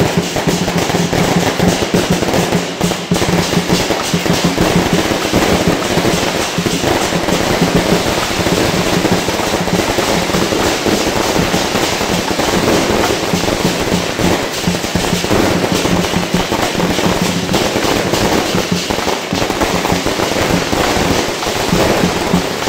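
Fireworks and firecrackers going off in a dense, continuous crackle, with music playing underneath.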